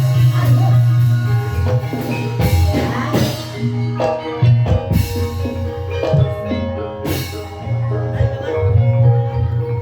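Ebeg accompaniment music: a gamelan-style ensemble of mallet-struck tuned percussion over a steady drum beat, with a few sharp crashes cutting through.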